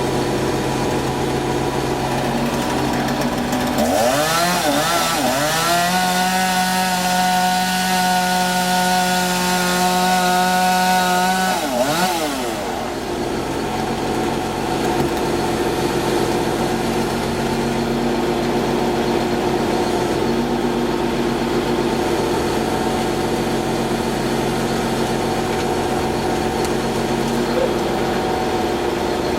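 A two-stroke chainsaw is revved up about four seconds in and held at full throttle for roughly eight seconds, then dropped back. Under it a large engine idles steadily throughout.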